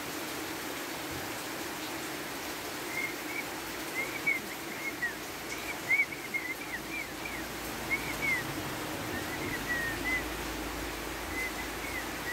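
Steady rain falling, with a small bird chirping: many short, quick chirps in a row, starting about three seconds in.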